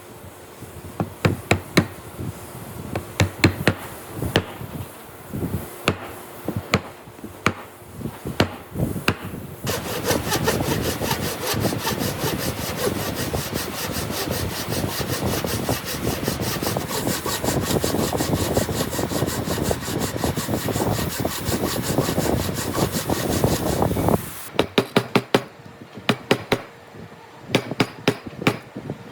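Sharp knocks on wood, several a second, for about the first nine seconds. Then a hand saw cutting wood in quick, steady strokes for about fourteen seconds. The knocking starts again near the end.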